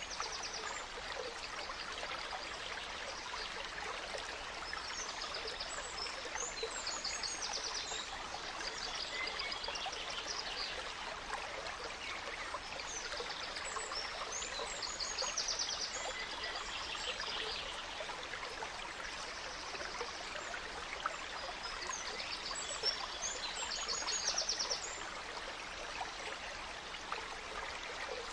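Gentle stream running steadily, with forest birds singing over it: short, quick trills and chirps that come and go throughout.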